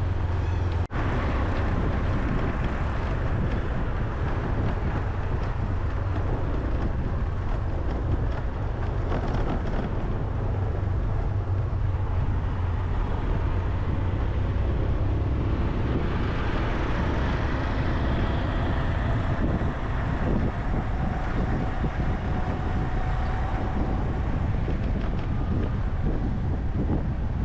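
Wind buffeting the microphone over steady outdoor road traffic noise, with a vehicle swelling past a little past the middle.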